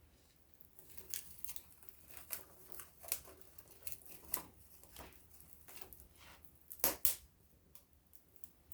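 Small wood fire crackling, with irregular sharp pops and snaps over a faint hiss; the loudest are two pops in quick succession about seven seconds in.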